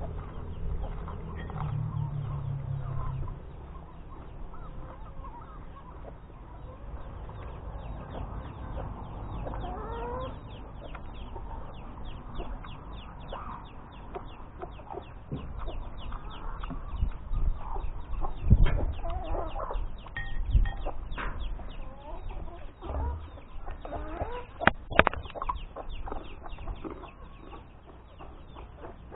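Chickens clucking with many short, repeated calls, and a few louder knocks partway through.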